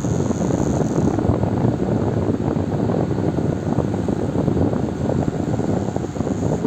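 Electric fan running steadily: a constant rush of air, heaviest in the low range, with no changes or breaks.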